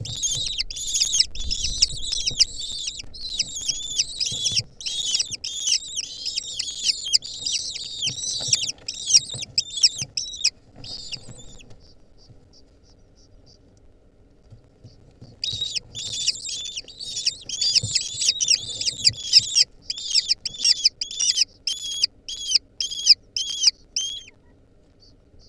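Lesser kestrels calling: quick, high, repeated calls, several a second, in two long bouts separated by a few seconds' pause. Near the end the calls thin out to single notes about two a second.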